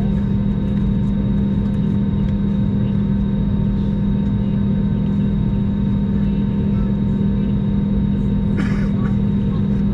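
Steady cabin drone inside an Airbus A321 with its jet engines running at idle after start: a strong low hum with fainter steady whine tones above it. A brief rattle comes near the end.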